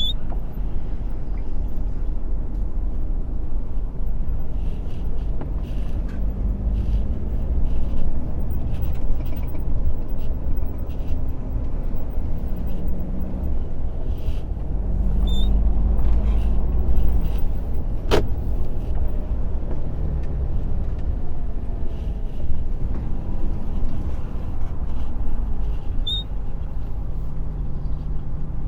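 Heavy truck engine running while driving, a steady low rumble whose pitch drifts up and down with engine speed. Scattered light knocks, with one sharp click about eighteen seconds in.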